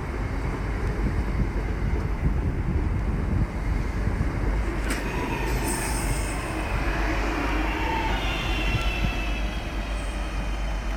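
Passenger train running into the station platform with a steady rumble; about eight seconds in, a high-pitched squeal of several tones sets in.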